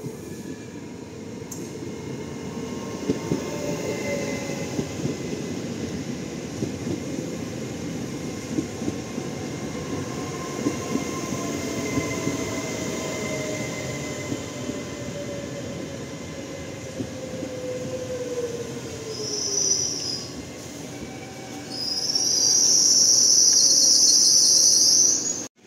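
Trenitalia Pop electric multiple unit running into the station and slowing: a steady rumble of wheels on rail, with motor whines falling slowly in pitch. A brief high squeal comes about three-quarters of the way through, then a loud, sustained high squeal for the last few seconds as it brakes.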